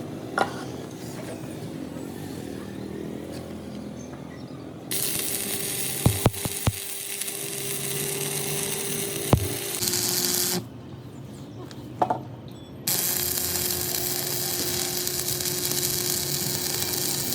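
An electric power tool runs with a steady whir, starting abruptly about five seconds in, stopping briefly near ten seconds and starting again about two seconds later. Several sharp clicks and knocks come before and during it.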